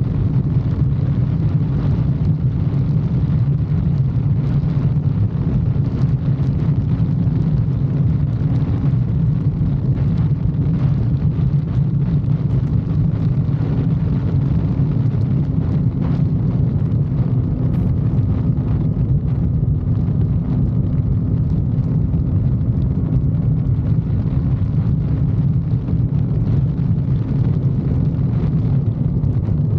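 Motorcycle engine running at a steady cruising speed, a low even drone that holds the same pitch throughout with no gear changes.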